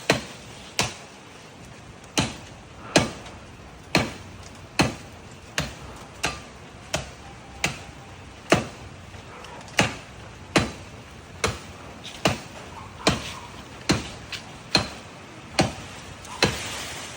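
Bolo (machete) chopping into a tree branch: about twenty sharp strikes at a steady pace, a little under one a second.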